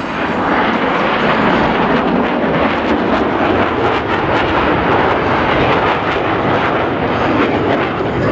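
Blue Angels F/A-18 Super Hornet jet engines roaring loud and steady in a flyby, with a crackle in the high end.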